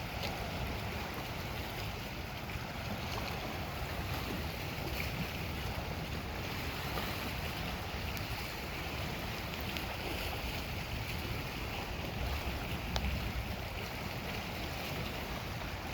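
Steady wind buffeting the microphone over the wash of Lake Superior waves, a continuous low rumbling noise with no distinct events.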